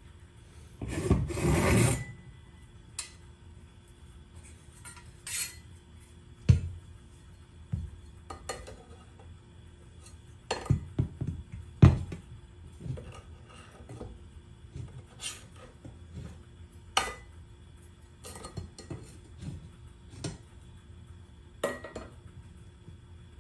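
A scrape lasting about a second near the start, then scattered clicks and knocks, clustered around the middle, of tools and hardware being handled during a garage door installation.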